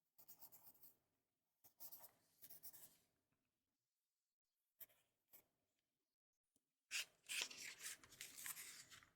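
Writing on paper, close up: a few short scratchy bursts of strokes in the first three seconds, two light taps in the middle, then a longer, louder run of scribbling near the end.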